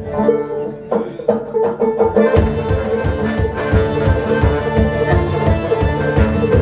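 Banjo picking the opening of a folk song alone, joined about two seconds in by the rest of the band with a steady driving beat.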